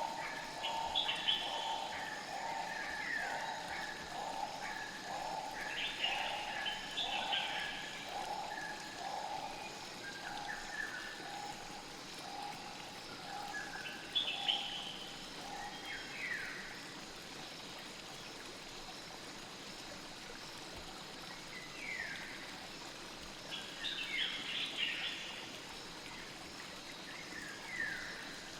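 Forest stream ambience: water flowing steadily, with birds chirping in short falling phrases. For the first twelve seconds or so, a repeated pulsing call sounds about once a second.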